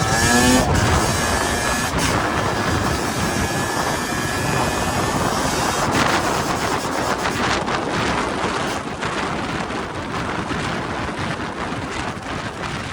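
Dirt bike engine revving up as the bike accelerates in the first second, then running along at speed under heavy wind noise on the microphone.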